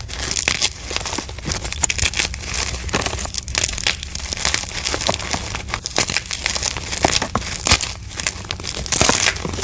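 Dyed gym chalk being crushed and crumbled, a dense, irregular run of dry crackles and crunches over a powdery hiss.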